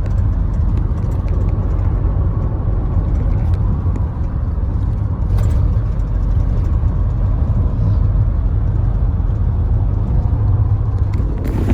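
Ute being driven, its engine and road noise making a steady low rumble.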